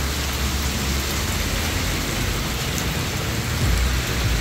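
Heavy rain pouring onto a wet paved street, a steady hiss, with a low rumble swelling near the end.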